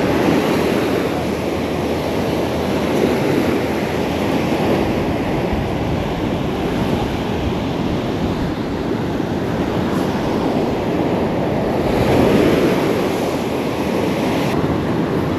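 Surf washing onto a beach with wind on the microphone: a steady rush that swells near the end.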